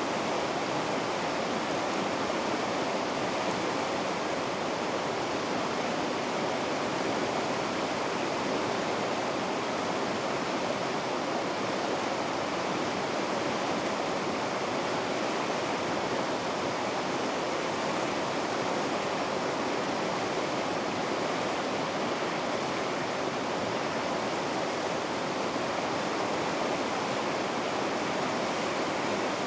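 River water rushing through the Vikaköngäs rapids: a steady, unbroken rush with no changes.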